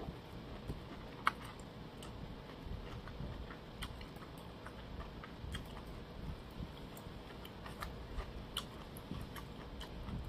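Close-up mouth sounds of someone chewing food: scattered faint, irregular clicks and smacks, with one sharper click about a second in.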